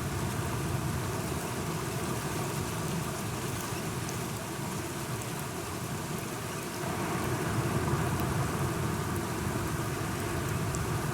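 Steady rain falling, with scattered drop ticks over a low rumble that swells slightly about seven seconds in.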